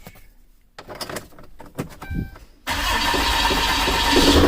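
A 2011 Ram 3500's 6.7 L Cummins inline-six turbodiesel is cranked over by the starter for about two seconds. It catches suddenly about 2.7 s in and keeps running. It starts now that the crank and cam sensor connectors, which had been swapped, are on their correct sensors.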